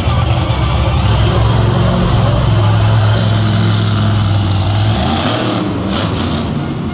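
Monster truck engine running hard with a steady low drone, easing off about five seconds in.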